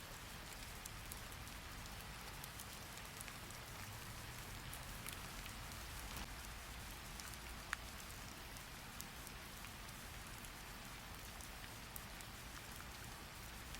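Steady rain: an even hiss with many scattered drop taps and one sharper tap about eight seconds in.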